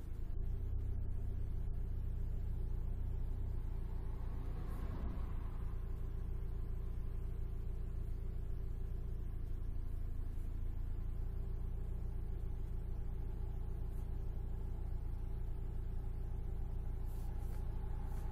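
Alfa Romeo 156 heard from inside the cabin while driving: a steady low drone of engine and road noise.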